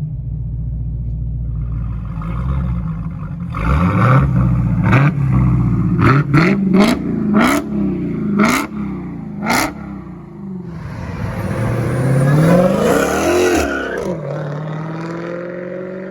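Supercharged 6.2-litre Hemi V8 of a 2019 Dodge Hellcat through a Kinney's Tunnel Ram performance exhaust, idling, then revved in a quick run of about seven short throttle blips, followed by one longer rev that falls back to idle.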